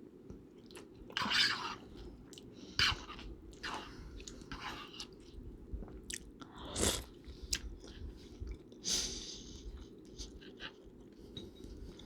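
A person chewing soft food close to the microphone, with irregular wet, crackly mouth noises, several of them louder, among them one about a third of the way in that reaches down low. Under it runs a steady low hum.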